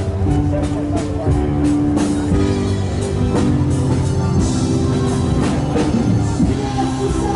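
A live rock band playing, with drum kit and guitar carrying the beat.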